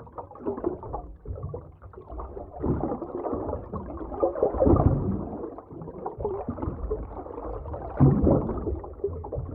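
Underwater ambience: muffled, low rumbling water movement with gurgling bubbles, swelling in surges about halfway through and again near the end.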